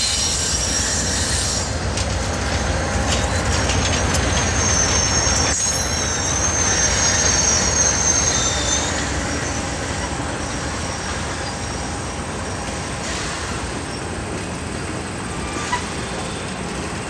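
Passenger train rolling past with a steady rumble; its steel wheels squeal in high, thin tones from about two seconds in until about nine seconds in, and the rumble eases off after that.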